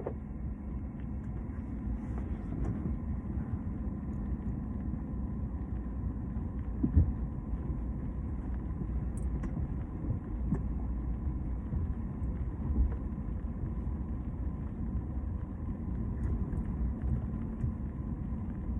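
Truck running slowly while backing a boat trailer, a steady low rumble with a faint steady hum, and one short knock about seven seconds in.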